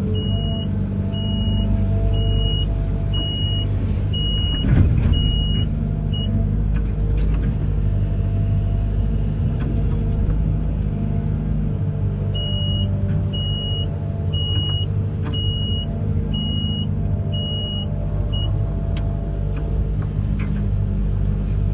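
Amphibious excavator's diesel engine running steadily. A warning beeper sounds about once a second, in two runs of six or seven beeps with a pause between. A single clunk comes about five seconds in.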